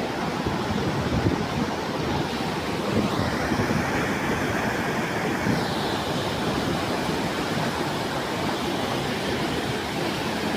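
Heavy rain pouring down as a steady, continuous hiss, which briefly grows brighter about three seconds in.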